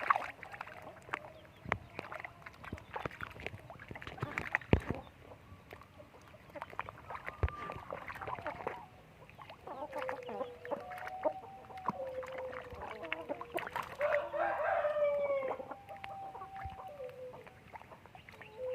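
Chickens clucking in quick short calls; from about ten seconds in, longer drawn-out calls join them.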